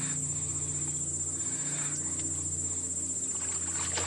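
Steady chorus of crickets trilling at one high pitch, over a low steady hum.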